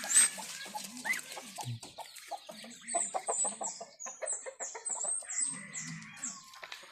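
Chickens clucking, with a busy patter of short clicks and scratches. A quick run of short, high, falling chirps comes about halfway through.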